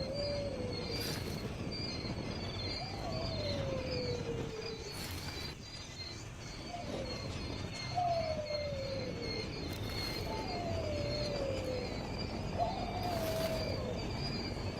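A low whistled call that slides downward, repeated about every two to three seconds, over a steady high insect trill.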